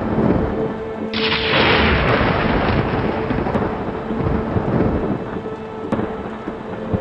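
Thunderstorm: rumbling thunder over steady rain, with a sudden louder surge of crackling noise about a second in that fades over the next couple of seconds.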